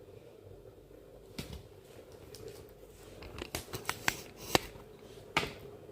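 A run of sharp clicks and knocks from objects being handled, bunched together between about three and five seconds in, over a faint steady hum.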